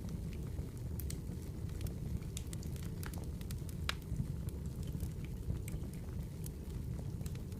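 Wood fire burning in a fire bowl: a steady low rumble of flames with irregular sharp crackles and pops, one louder pop about four seconds in.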